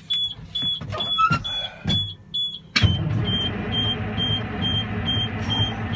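A truck's dash warning buzzer beeps about twice a second, with a few clicks and knocks. About three seconds in, a steady low mechanical noise starts suddenly, the starter cranking the cold Detroit diesel engine, and the buzzer drops a little in pitch as the starter pulls the voltage down.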